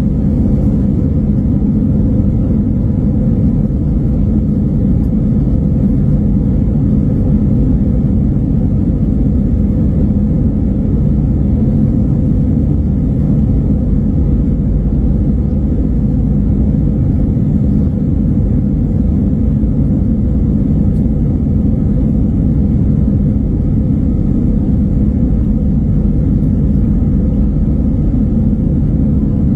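Steady, unchanging low vehicle rumble with a faint constant hum over it, no revving or change in pitch.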